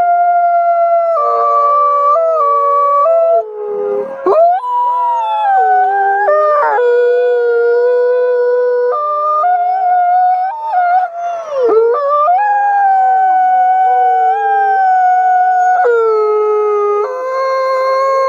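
A pack of wolves howling in chorus: several long howls overlap at different pitches, each held steady, with a few voices briefly breaking and sliding down in pitch.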